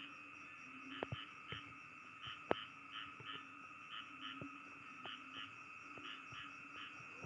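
Night chorus of frogs and insects: a steady, high insect drone under repeated pulsing calls a few times a second, with a few sharp clicks, the loudest about two and a half seconds in.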